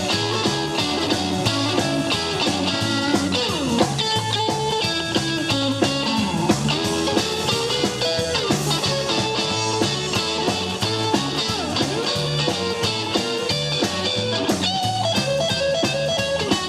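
Live rockabilly band playing an instrumental break between verses: an electric lead guitar solo with bent and sliding notes over double bass and drums.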